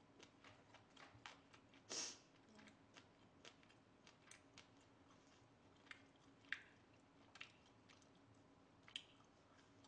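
Faint chewing of soft boiled duck meat: scattered wet mouth clicks and small smacks, with a short louder smack about two seconds in.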